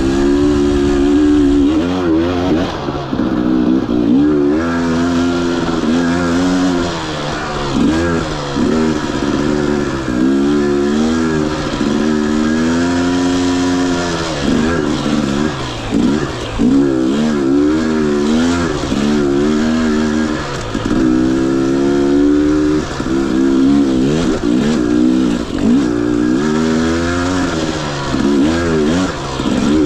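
Husqvarna TE 250i single-cylinder two-stroke dirt bike engine revving up and down over and over as the throttle is worked, its pitch rising and falling every second or two.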